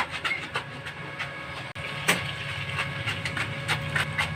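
Irregular light knocks and clicks over a steady low hum.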